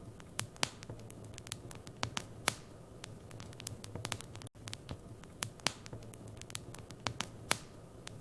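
Wood fire in a fireplace crackling: irregular sharp pops and snaps over a low steady rumble of the flames. The sound cuts out for an instant about halfway through.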